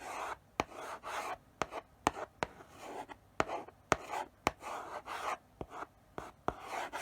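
Chalk writing slowly on a blackboard: short scratchy strokes broken by sharp taps as the chalk meets the board.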